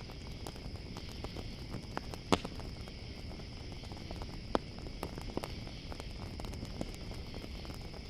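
Campfire crackling with scattered sharp pops, the loudest about two seconds in and again about four and a half seconds in, over a steady high chorus of crickets.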